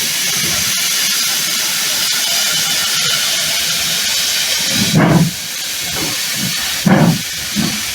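Steam locomotive hissing steadily, then starting to move off with slow exhaust chuffs: the first about five seconds in and two more close together near the end.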